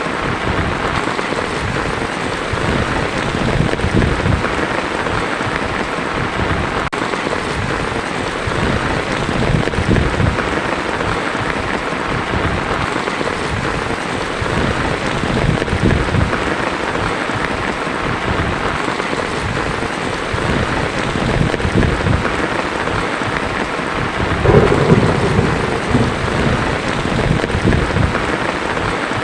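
Steady heavy rain falling on a tin roof, with low thunder rumbling underneath and one louder swell of thunder near the end.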